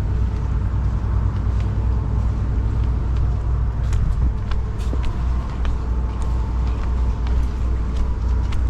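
Steady low engine rumble with a faint constant hum above it.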